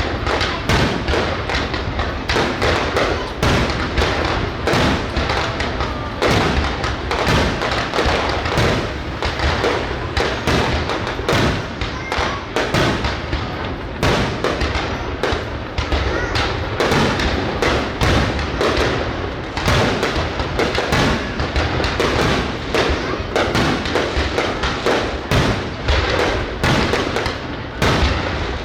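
Aerial fireworks display: a dense, unbroken string of bangs and thuds from shells bursting overhead, several every second, with no pause.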